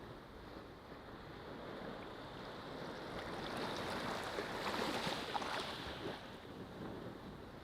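Ocean waves breaking on a beach, a rushing surge that builds to a peak about five seconds in and then draws back.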